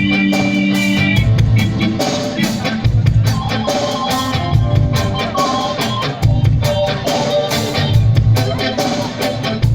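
Live band jamming on drum kit and guitar, with a held chord that cuts off about a second in; low drum hits land about once a second under shifting melodic notes.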